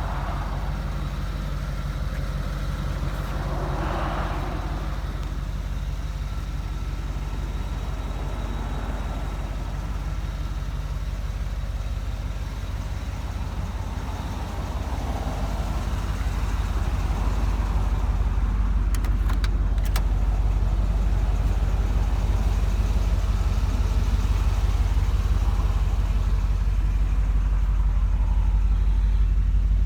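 1982 Corvette's 350 Cross-Fire Injection V8 idling steadily, growing louder about halfway through.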